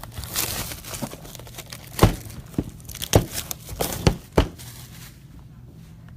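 Foil trading-card pack wrappers being torn open and crinkled by hand, with several sharp crackles and snaps through the first five seconds before it eases off.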